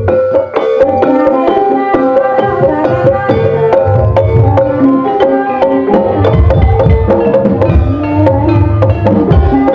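Gamelan ensemble accompanying an ebeg dance: pitched metallophone tones repeat a melody over busy kendang hand-drum rhythms with a heavy low drum pulse.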